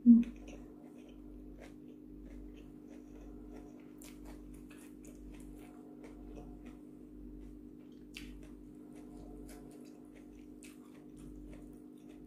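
Close-miked eating by hand: faint chewing, wet mouth clicks, and light ticks of fingers picking at rice and raw vegetables on a plate, over a steady low hum. There is a brief loud low bump right at the start.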